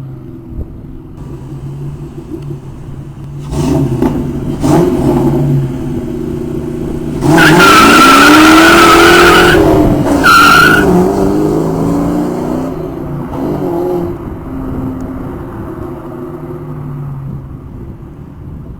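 1996 Mustang GT's 4.6-litre V8 through Flowmaster Super 44 mufflers, revving a few times, then launching hard with the tires squealing for a couple of seconds about seven seconds in. A second short squeal follows, and the engine note fades as the car pulls away.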